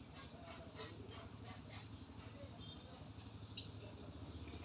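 White-rumped shama (murai batu) giving a few short, high chirps, about half a second in and again around three and a half seconds in, over a steady low hum.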